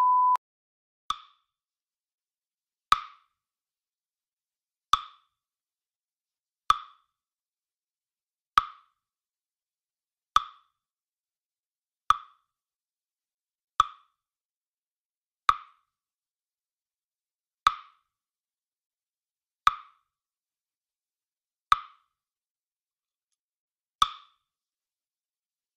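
A short, bright plop-like pop sound effect, repeated about every two seconds with dead silence between, about a dozen times. It starts right after the end of a steady censor-style bleep tone.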